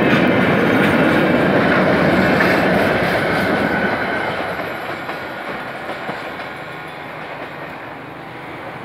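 Railway wheels rolling over the rails with a clickety-clack as passenger coaches and a train of empty open freight wagons pass the crossing. The noise is loud for about the first four seconds, then fades as the cars move away.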